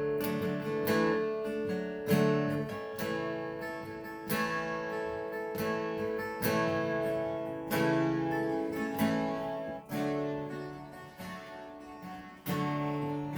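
Acoustic guitar playing an instrumental piece: chords struck every second or two and left to ring.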